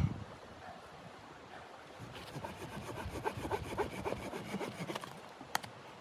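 Hand saw cutting wood in quick, uneven strokes, with a sharp click near the end.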